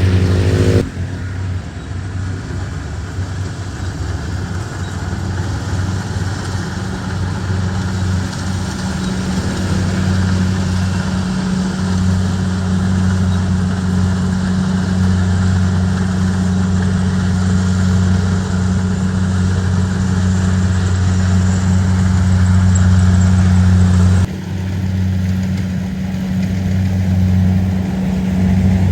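Rice combine harvester engine running steadily with a low drone. The sound changes abruptly about a second in and again near the end.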